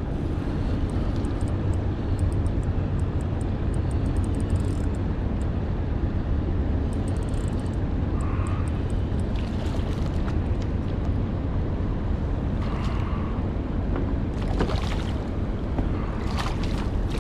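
Steady low rumble of wind on the microphone over water moving around a kayak, with a few faint clicks and short swells of splashing noise near the end.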